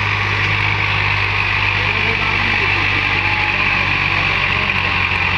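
A vehicle engine running steadily at constant speed: a loud, even low hum with fast regular pulsing underneath and a steady hiss over it.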